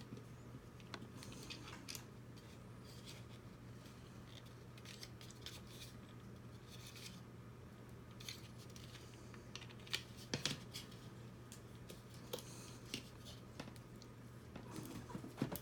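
Scattered faint clicks, taps and rustles of small robot-kit parts and screws being handled during assembly, with a few sharper clicks about ten seconds in and near the end, over a steady low hum.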